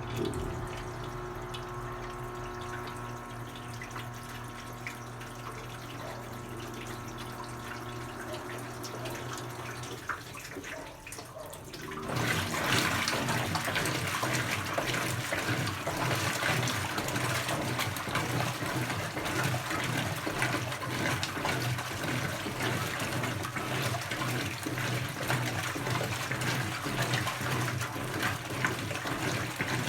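Brastemp BWK17 washing machine: a steady motor hum for about the first ten seconds, which winds down and stops, then water starts rushing into the tub about twelve seconds in and keeps pouring as the machine fills.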